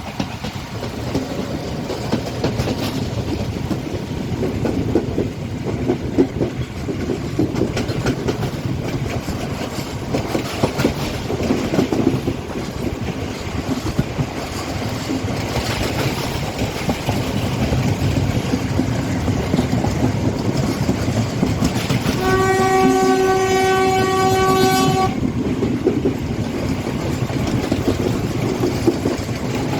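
Express train running on the rails with steady wheel and track rumble and clickety-clack. About three-quarters of the way through, a train horn sounds one steady blast of nearly three seconds.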